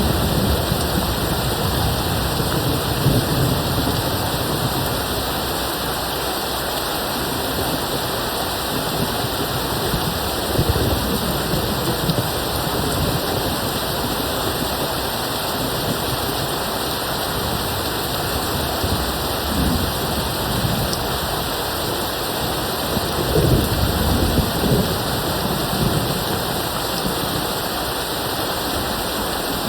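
Steady rain falling, with distant thunder rumbling low a few times; the strongest roll comes about three quarters of the way through.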